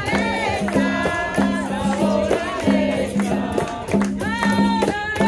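Capoeira roda music: voices singing a song together, with a rhythmic low twanging note and the jingling slaps of a pandeiro frame drum keeping a steady beat.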